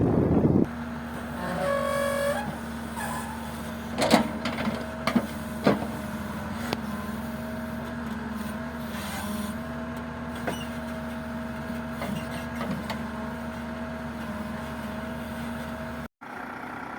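Heavy vehicle engine running steadily, with a short horn-like tone about two seconds in and a few sharp knocks a little later.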